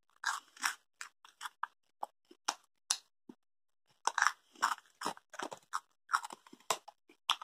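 Chewing crunchy Estrella Chili BBQ cheese puffs close to the microphone: a run of irregular crisp crunches, with a short pause a little after three seconds in.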